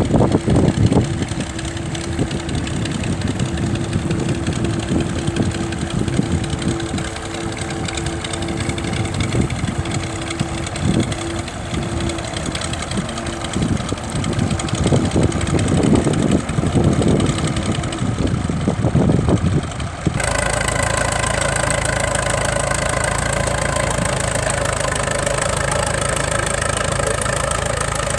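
Tractor engines running, with an uneven low rumble for most of the stretch. Near the end it changes abruptly to one engine running steadily at an even pitch.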